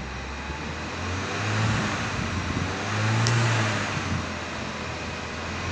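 2014 Volkswagen Polo's 1.2-litre turbo petrol four-cylinder engine revved twice in park. The revs rise to about 3000 rpm and fall back between, the two blips about a second and a half apart, the second the louder.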